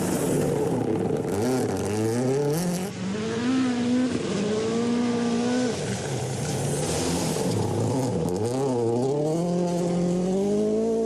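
Rally car engine at full effort on a stage, its note dropping and climbing again several times as the driver lifts, shifts and accelerates.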